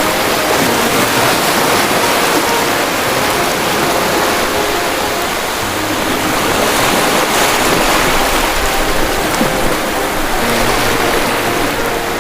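Ocean waves washing on the shore: a steady rush of surf with gentle rises and falls in loudness.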